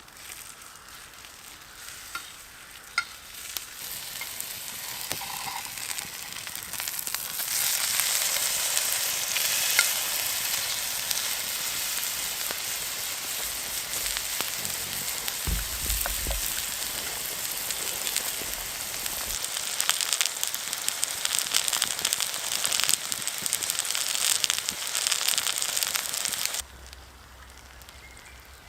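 Food sizzling and frying in a hot pan, a dense crackling hiss that builds over the first few seconds and holds steady, then cuts off suddenly near the end.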